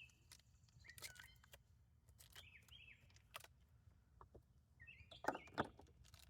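Near silence with a few faint bird chirps, some light clicks, and a slightly louder knock about five seconds in.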